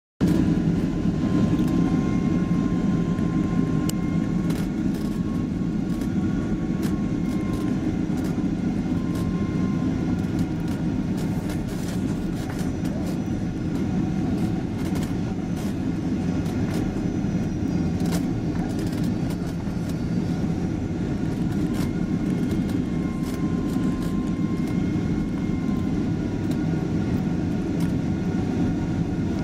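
Steady cabin noise inside a Boeing 767-300ER airliner in flight on approach: a deep rushing hum of the engines and airflow, with faint high engine tones that waver slightly and scattered light clicks and rattles from the cabin.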